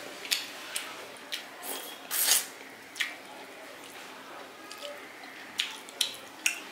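Close-up wet eating sounds: irregular squishy smacks and clicks of a mouth chewing a saucy fish-and-rice meal, with a longer smack about two seconds in.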